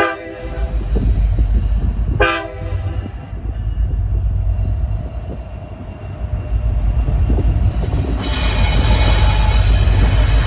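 Locomotive horn sounding two short blasts about two seconds apart over the low rumble of a passing train. From about eight seconds in, a loud high-pitched squeal of steel wheels on the rails joins in.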